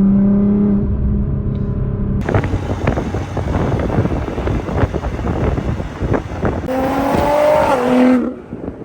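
Nissan GT-R's twin-turbo V6 cruising with a steady drone, then suddenly going to full throttle about two seconds in: a loud rushing engine and intake noise with crackles. Near the end the engine note climbs and steps down twice at quick gear changes, then drops off as the throttle is lifted.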